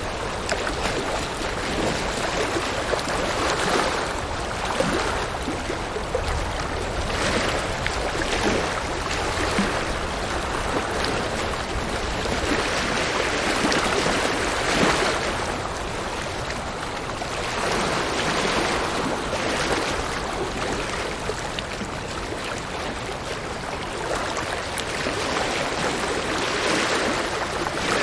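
River water flowing and rushing over rocks, a steady rush that swells and eases every few seconds.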